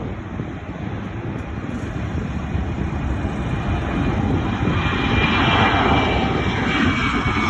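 Jet airliner's engines passing by: a low rumble with a hissing whine that swells to its loudest about five to six seconds in.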